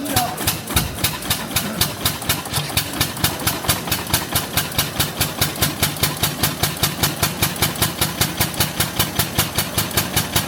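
Benz Patent-Motorwagen's single-cylinder engine running just after a cold start, firing in a slow, even beat of about four exhaust pulses a second.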